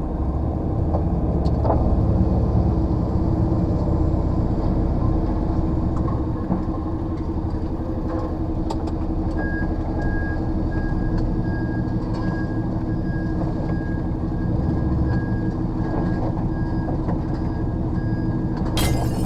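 HGV lorry's diesel engine running while the lorry is manoeuvred round in a tight yard, heard from the cab. From about halfway, a reversing alarm beeps repeatedly. A short burst of hiss comes near the end.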